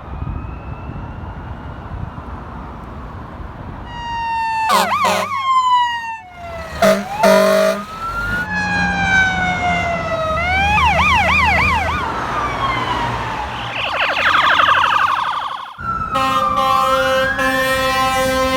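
Ambulance and fire engine sirens on an emergency run, switching between a slow rising-and-falling wail and a fast yelp. Short steady horn blasts come about a third of the way in, and a longer horn comes near the end as another siren winds up.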